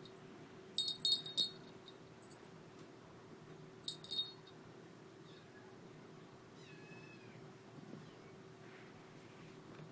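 A kitten mewing: a quick run of short, very high-pitched mews about a second in, another pair around four seconds in, and a few faint ones later.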